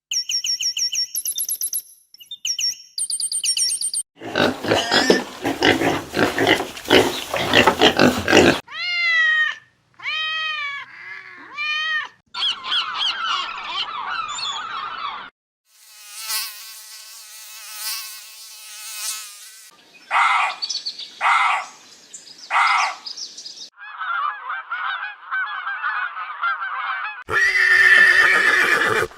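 A rapid series of different animal calls, one kind after another every few seconds: high chirping bird-like calls, a long rough loud call, arching pitched cries and a trill.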